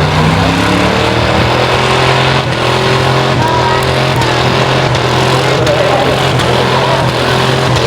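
Several race car engines running together on the track, their pitch repeatedly rising and falling as the cars accelerate and lift.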